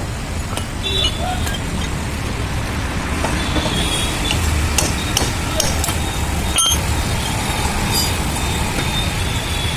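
Steady road-traffic rumble with scattered light metallic clicks and taps, the sharpest about six and a half seconds in.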